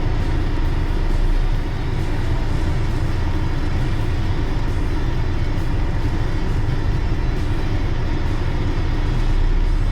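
Car driving at a steady pace: continuous low rumble of engine and tyres on the road.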